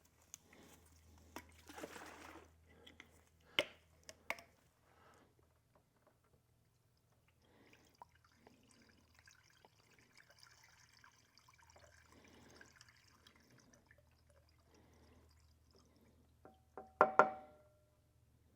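Engine flush being poured from its bottle into an engine's oil filler, a faint liquid trickle and glug, with a few handling clicks in the first seconds. Near the end there is a sharp clink with a short ring, the loudest sound.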